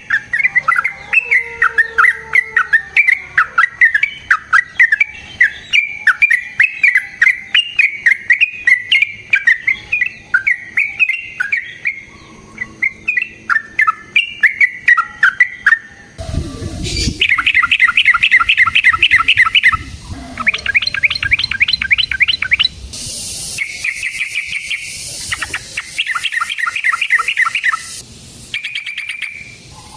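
Yellow-vented bulbul (trucukan) singing: long runs of rapid, bubbly chattering notes. About halfway through there is a sudden change to fast rattling trills that come in bursts of a couple of seconds.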